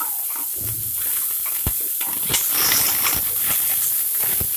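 Sliced onions sizzling in oil and ghee in a stainless steel pressure cooker, with a wooden spatula stirring and knocking against the pot several times.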